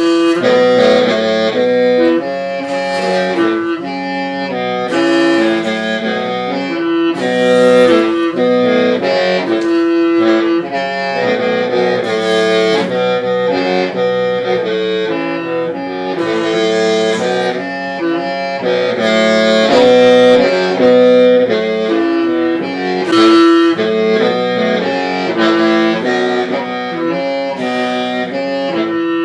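Hmong qeej (lusheng), a bamboo free-reed mouth organ, playing a slow tune, several reed pipes sounding together in a held chord that steps from note to note.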